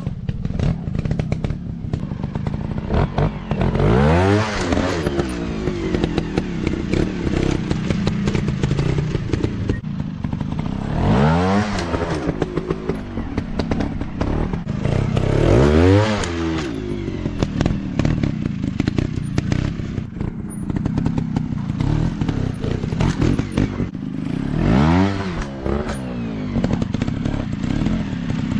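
Dirt bike engine revving hard in about four surges, each pitch climbing and falling back, between stretches of lower running, with clattering and knocks throughout.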